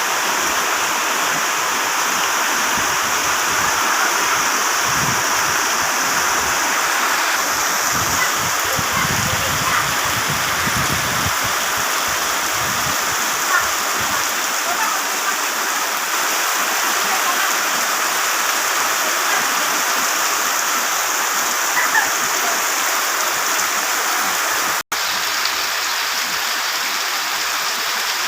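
Heavy tropical rain pouring down in a steady, dense hiss, with a brief cut in the sound about three-quarters of the way through.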